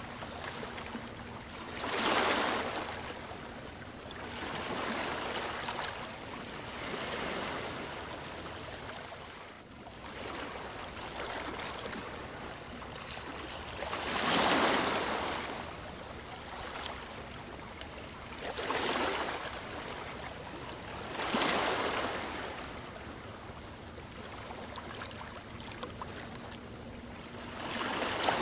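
Ocean waves washing in one after another, each a swelling rush of surf every few seconds that fades back into a steady hiss of water.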